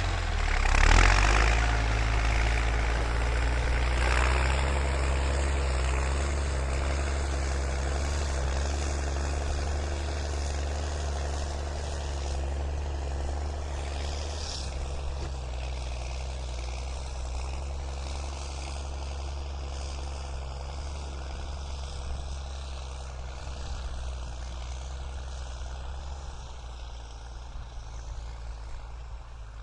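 New Holland TS6.125 tractor's diesel engine running steadily, with a brief louder surge about a second in, then growing gradually quieter.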